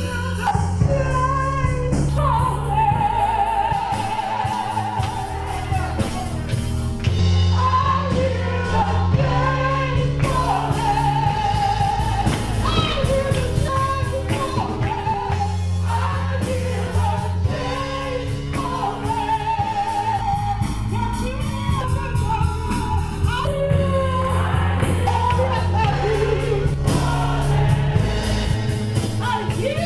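Live gospel singing over band accompaniment: a sung melody with wavering held notes over steady bass.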